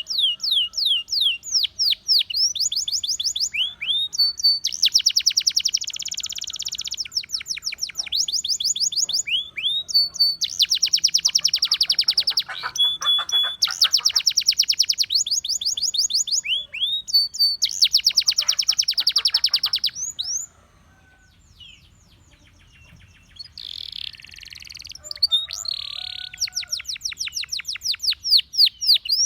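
Russian singing canary singing: long runs of rapid, evenly repeated falling whistled notes alternating with fast dense trills. The song breaks off for a couple of seconds about two-thirds of the way through, then resumes.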